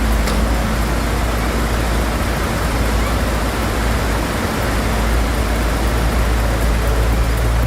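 Heavy diesel machinery running steadily: an even low rumble with a hiss over it.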